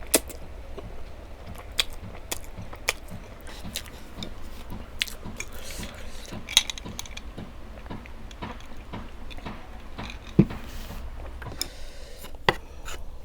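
Close-miked eating: chewing and biting food, with scattered sharp clicks and crunches, over a steady low hum.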